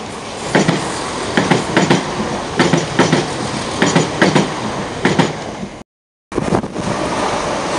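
Southern Class 171 Turbostar diesel multiple unit passing close by, its wheelsets clicking over rail joints in quick pairs, bogie after bogie. After a sudden break the sound becomes a steady rushing noise.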